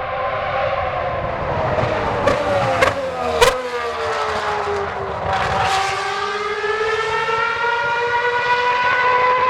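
Ferrari 412 T1B's 3.5-litre Formula 1 V12 running hard. Its pitch falls steadily as the revs come down, with three sharp cracks a couple of seconds in. About halfway through it picks up again and rises slowly in pitch as the car accelerates.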